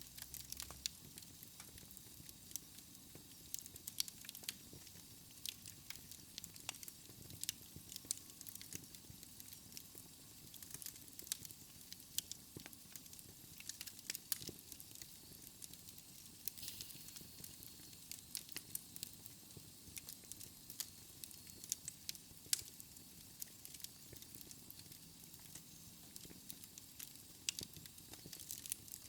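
Wood fire in a fireplace crackling: irregular sharp pops and snaps over a faint steady hiss.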